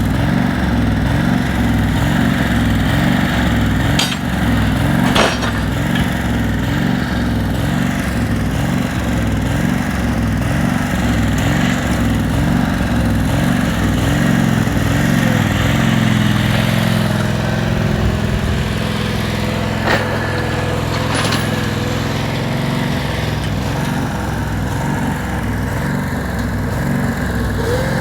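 Tractor engine running steadily with an even low pulsing; the engine note shifts about halfway through. A few sharp metallic clinks or knocks sound over it.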